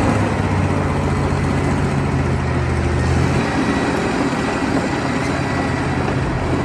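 A heavy vehicle's engine running loudly, with a steady low hum under a rushing noise. The low hum drops away about three seconds in.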